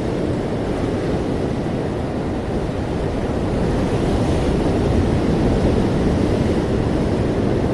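Ocean waves and surf in a steady, low wash, swelling slightly partway through.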